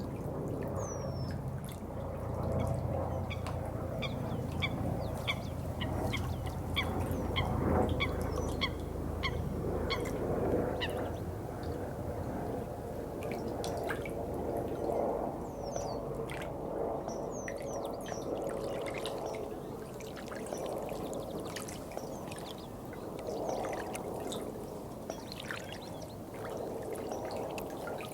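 Water trickling and pouring steadily. Over it, a bird repeats a short high chirp about twice a second for some seconds, then gives scattered single calls.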